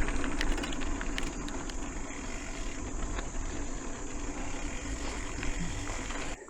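Mountain bike being ridden on a dirt trail: steady tyre and wind rumble with scattered clicks and rattles from the bike.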